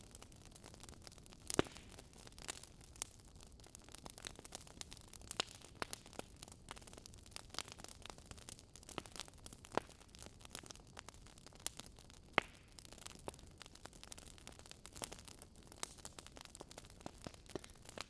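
Wood fire crackling in a fireplace: irregular sharp pops and snaps over a soft steady hiss, with two louder pops, one near the start and one about two-thirds through.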